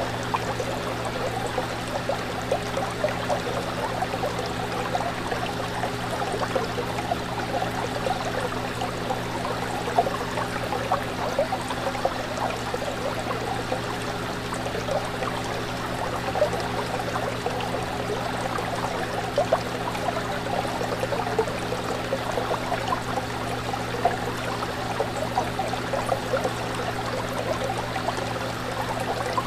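Fish tank water bubbling and trickling steadily, with a steady low hum underneath.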